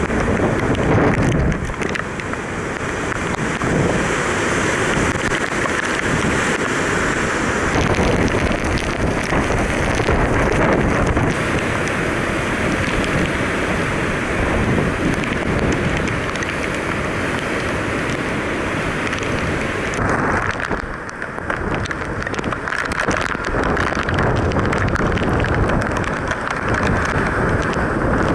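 Hurricane-force wind gusting hard and buffeting the microphone in a continuous loud rush, easing briefly about three quarters of the way through.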